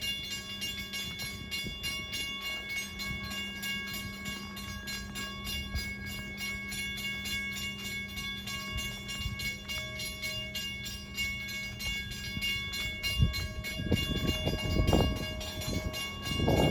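Long Island Rail Road M7 electric multiple-unit train standing at a station platform, its onboard equipment giving a steady electrical whine of several pitches over a low hum. The rumble grows louder and rougher near the end.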